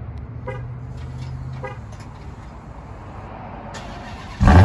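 Dodge Charger SRT Hellcat Widebody's supercharged 6.2-litre HEMI V8 being remote-started from the key fob. A few faint short chirps come first, then near the end the engine fires with a sudden loud burst and runs on strongly.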